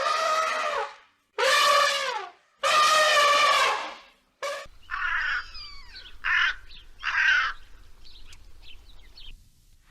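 Animal calls: three long, pitched calls of about a second each that fall away at their ends. Then a different set of shorter bird calls with sliding pitch and a few chirps over a low rumble, fading to faint chirps near the end.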